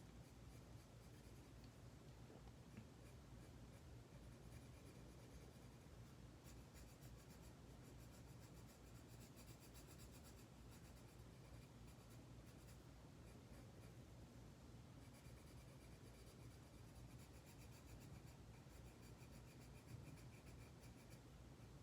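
Faint, quick scratching strokes of a colouring tool on paper as a drawing is coloured in, busiest from about six seconds in until about fifteen.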